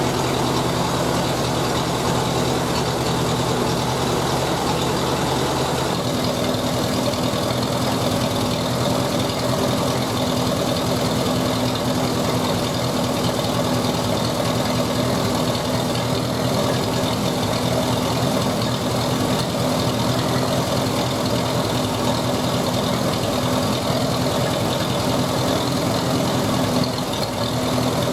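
Ferguson TED-20 tractor's four-cylinder engine running steadily on petrol, its note changing about six seconds in. The owner says the engine isn't very good and needs a rebuild.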